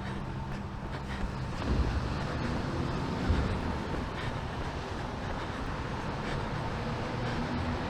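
Steady city traffic noise with an engine hum running through it, and two dull thumps, the louder one about three seconds in.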